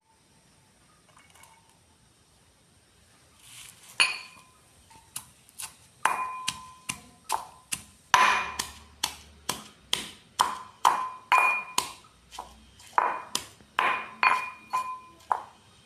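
A kitchen utensil striking a metal bowl over and over, about two sharp ringing strikes a second, starting about four seconds in.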